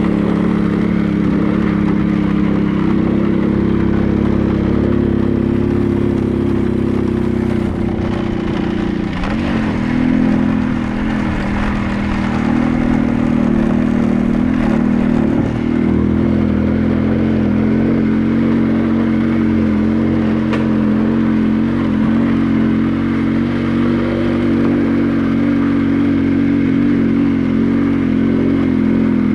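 Motorcycle engine running while riding along at a steady pace; its pitch dips and wavers about nine seconds in, then holds steady again.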